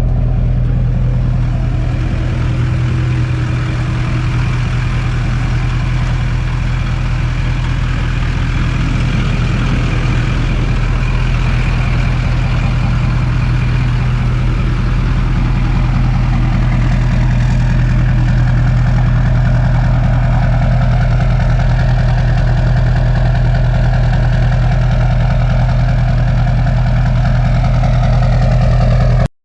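Straight-piped 2001 LB7 Duramax 6.6 L V8 turbodiesel idling steadily through a 4-inch exhaust with no muffler and a large tip. The sound cuts off abruptly near the end.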